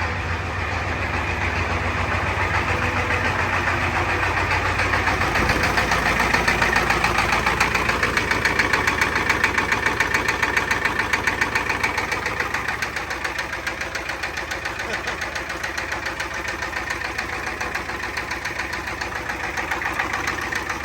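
7.3L IDI V8 diesel idling with a fast, even diesel knock, freshly cold-started at about 20°F. It grows a little louder a few seconds in, then settles slightly.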